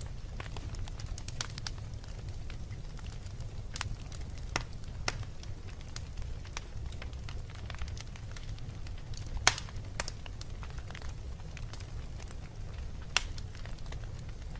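Wood fire burning in a fireplace: a low steady rumble of flames with scattered crackles and pops, the sharpest pop about two-thirds of the way in and another near the end.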